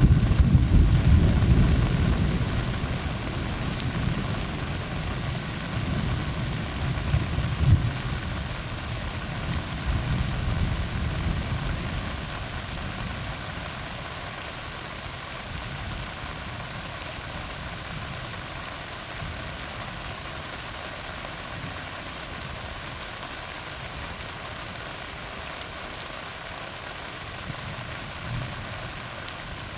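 Steady rain falling on a tar road, with a long roll of thunder that is loudest at the start and rumbles away over about the first twelve seconds.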